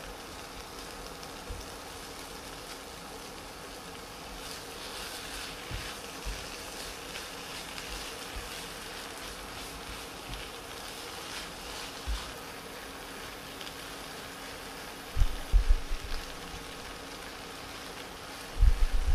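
Sliced onions and bacon sautéing in butter in a frying pan: a soft, steady sizzle, with a utensil stirring them. A steady faint hum runs underneath, and a few low thumps come near the end.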